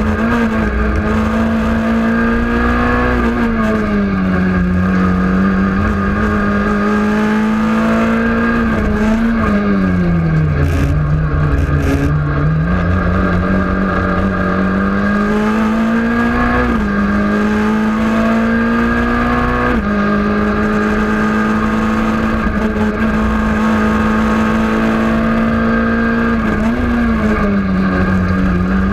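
Renault Clio rally car engine heard from inside the cabin, running loud and continuously. Its pitch climbs and falls back with the gear changes, dips low for a couple of seconds about ten seconds in, then climbs again.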